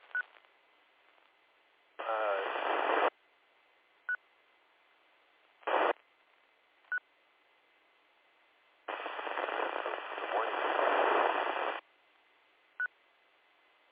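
Totally unreadable FM transmissions through a two-metre amateur radio repeater: two bursts of hissy noise with a voice barely showing through. The first lasts about a second, at about two seconds in, and the second lasts about three seconds, from about nine seconds in. Four brief squelch blips fall between them. The calling station is too weak and noisy to copy.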